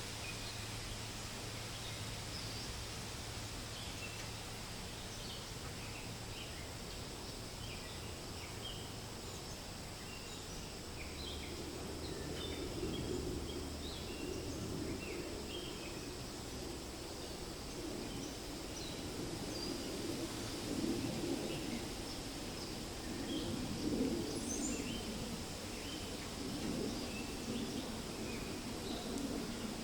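Forest ambience: wind rustling through leaves, with birds giving many short, high chirps throughout. The wind noise grows louder and gustier a little before halfway.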